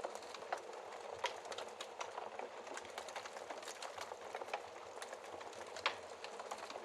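Wood fire burning with a steady soft hiss and irregular crackles and pops of burning logs, one sharper pop near the end.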